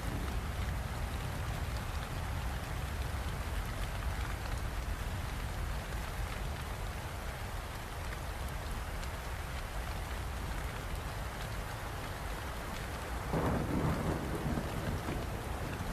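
Steady rain falling, with a low rumble of thunder underneath and a louder swell of thunder about thirteen seconds in.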